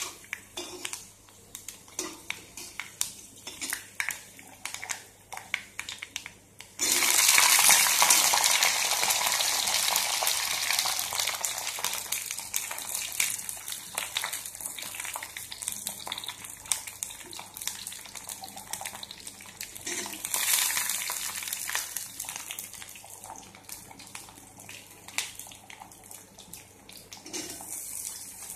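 A metal spatula taps and scrapes in an iron kadai of hot oil. About seven seconds in, a loud sizzle starts suddenly as dried red chillies and the other pickle ingredients go into the hot oil. The sizzle slowly dies down under stirring clatter and swells again around twenty seconds in.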